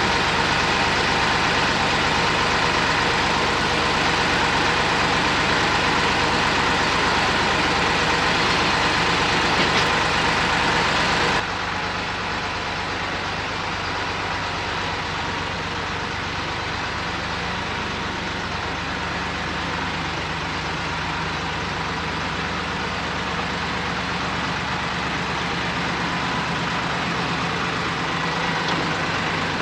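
Ford 1710 tractor's three-cylinder diesel engine running steadily. About eleven seconds in, the sound drops suddenly to a quieter, lower running, which then stays steady.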